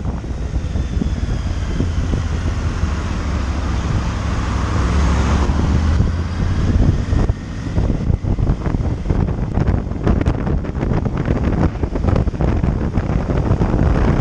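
Motorcycle riding along a road: wind buffeting the microphone over the engine's low, steady running note, with a rush of noise swelling and fading about five seconds in, and choppier buffeting through the second half.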